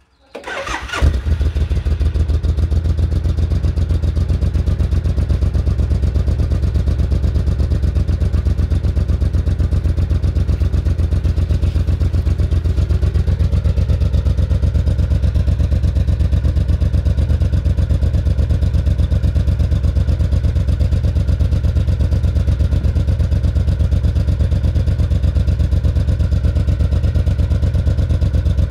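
2004 Suzuki Intruder 1500 LC's V-twin is cranked over by the electric starter, catches about a second in, and then idles steadily.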